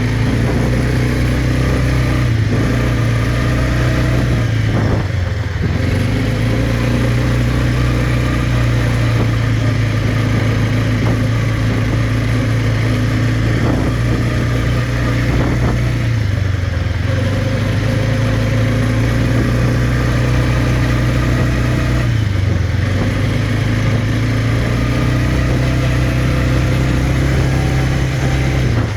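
Quad bike engine running steadily under way. Its pitch dips briefly about four times, as the throttle is eased and opened again.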